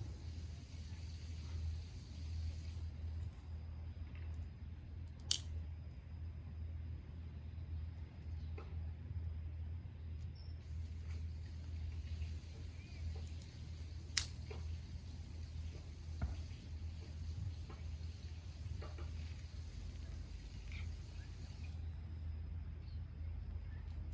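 Small wood campfire burning, with a few faint crackles and two sharp pops about nine seconds apart, over a steady low rumble.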